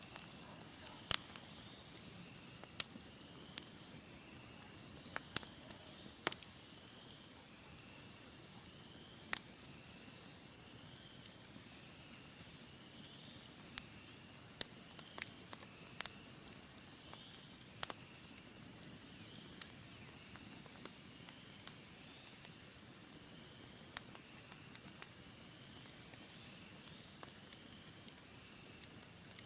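Smoldering wood campfire crackling, with irregular sharp pops over a soft steady hiss. A faint high chirp repeats about once a second in the background.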